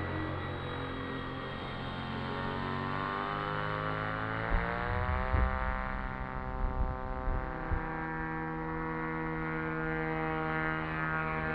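Electric motor and propeller of an H-King RADJet 800 RC plane in flight: a steady whine whose pitch rises about four seconds in and then holds, with a few low thumps in the middle.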